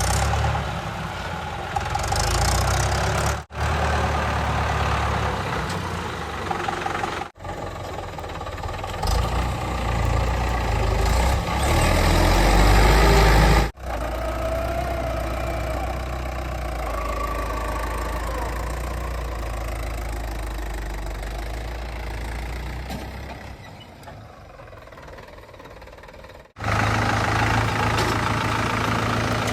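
Heavy diesel engines of earthmoving and haulage vehicles running, in several short clips cut together, each cut starting abruptly. One stretch is quieter, a couple of seconds before the last cut.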